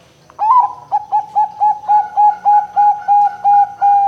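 Zebra dove (perkutut, Bangkok type) cooing: a rapid run of about a dozen short, clipped coo notes, about four a second, starting with a louder swooping note and ending in a longer drawn-out note.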